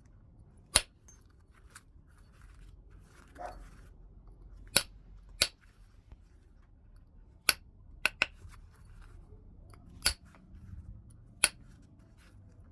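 Heat-treated Burlington chert being flintknapped: about eight sharp, short clicks at irregular intervals as flakes are detached from the stone, two of them in quick succession about eight seconds in.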